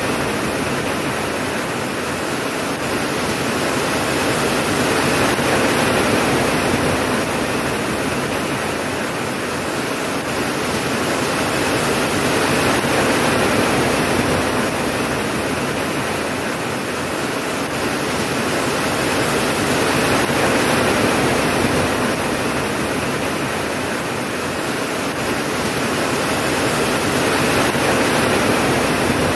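Rain falling steadily, a dense even hiss that swells and eases every six or seven seconds.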